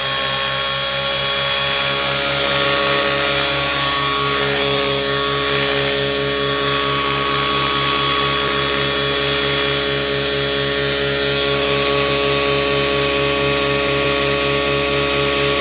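Nitro glow engine and rotors of a T-Rex 700 RC helicopter running steadily in flight, a high-pitched mechanical whine with a fast, even rotor beat. The engine's tuning is still slightly off, in the pilot's words "just a little off".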